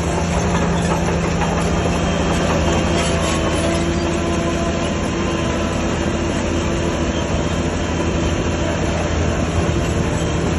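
Heavy earthmoving machinery's diesel engine running steadily, a constant drone with a dense mechanical clatter over it.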